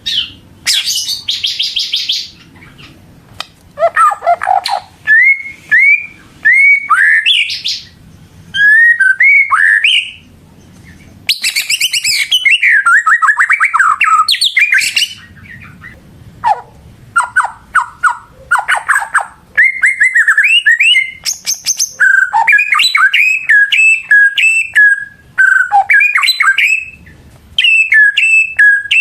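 White-rumped shama singing a loud, varied song of sliding whistles, rapid trills and chirps, delivered in bursts separated by short pauses.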